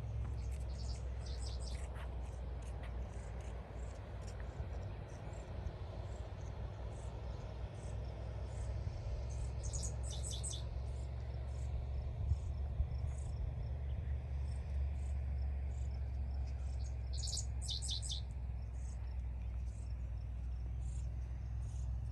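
Insects chirping in short high-pitched pulsed trills, a few louder bursts spaced several seconds apart among scattered fainter chirps, over a steady low rumble.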